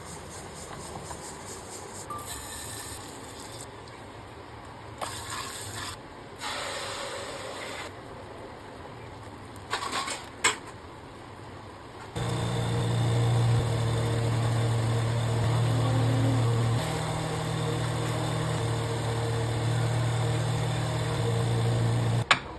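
Cooking noises with a few short knocks, then an electric kitchen appliance motor starts about halfway in, runs with a steady low hum for about ten seconds, and stops just before the end.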